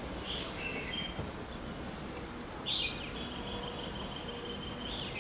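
A songbird sings: a few short chirps, then a louder call a little past halfway that runs into a long held whistled note, closing with another note near the end.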